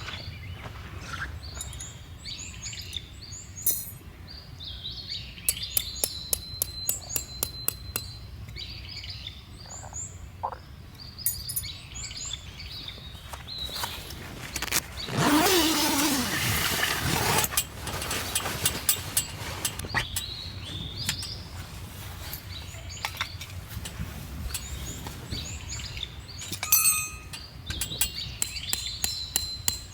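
Small birds chirping and tweeting on and off, with scattered sharp clicks and knocks. About halfway through, a louder rushing sound lasts two to three seconds.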